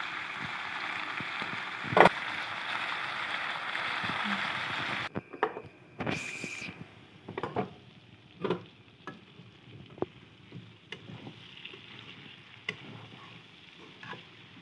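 Pork and potatoes sizzling in a wok while being stirred, with one sharp knock of the spoon against the pan about two seconds in. About five seconds in the sizzle drops away suddenly, leaving scattered scrapes and knocks from the stirring.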